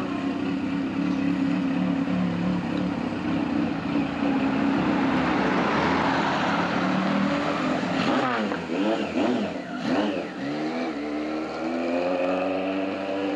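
Motorcycle engine running steadily, its pitch dropping and rising again several times from about eight seconds in as it slows and picks up speed.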